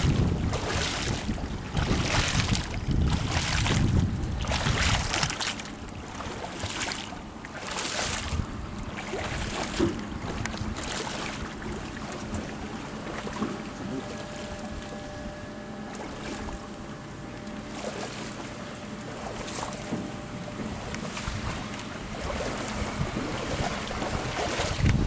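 Water splashing in regular strokes about once a second, with wind buffeting the microphone at first; after about nine seconds the splashing fades to a quieter steady wash.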